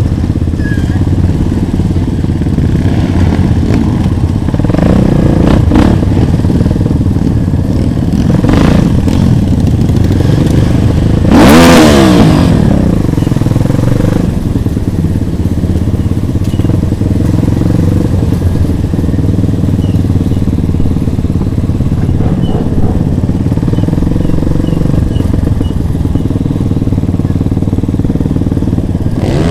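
Motorcycle engines running steadily throughout, with one louder pass about twelve seconds in whose pitch falls as it goes by.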